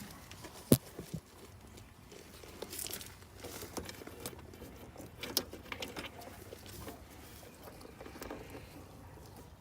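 Faint steady hum of the gas pack's compressor and outdoor fan running, with scattered clicks and rustling from handling. One sharp click just under a second in is the loudest sound.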